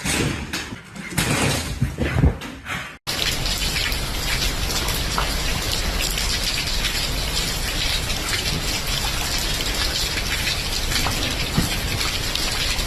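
A steady, dense hiss of falling water, like rain, starting abruptly about three seconds in. Before it come a few seconds of irregular, uneven noises.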